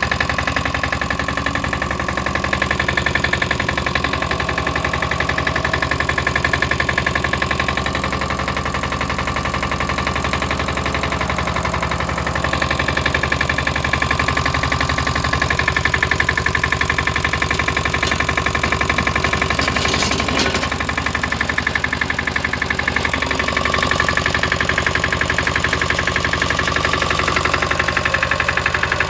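Lombardini Tipo 520 single-cylinder diesel engine on a BCS 715 walk-behind tractor, running steadily.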